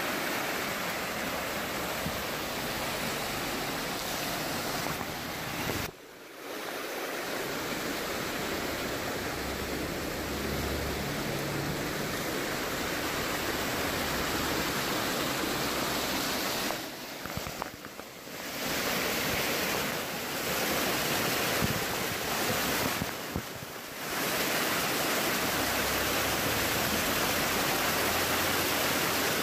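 Steady rushing noise of flowing water, with brief drops in level about 6, 17 and 23 seconds in.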